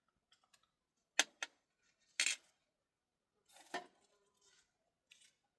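A few sharp clinks and knocks of hard objects being handled, with a short scrape in the middle and a cluster of knocks near the end.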